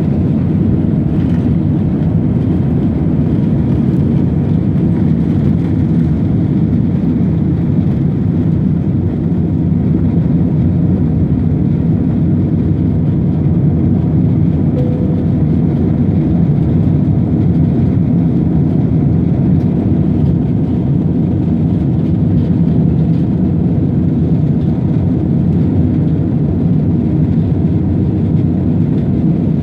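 Airplane engine noise: a steady, loud low rumble with no change in pitch.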